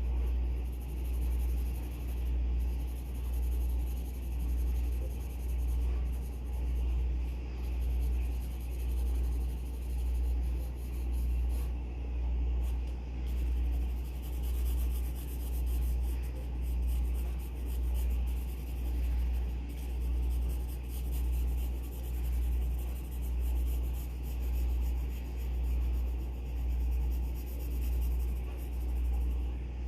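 Graphite pencil scratching across paper in strokes, heard faintly over a low rumble that swells and fades about once a second.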